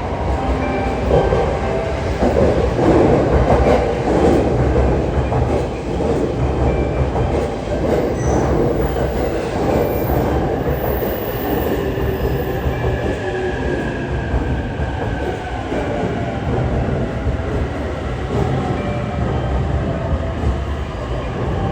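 E657 series electric limited-express train pulling into the platform, its wheels and running gear loudest about three seconds in. A whine falls slowly in pitch midway as the train slows to a stop.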